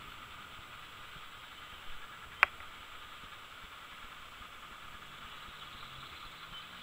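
Faint, steady hiss of the departing Airbus A320's IAE V2500 jet engines in the distance. A single sharp click about two and a half seconds in.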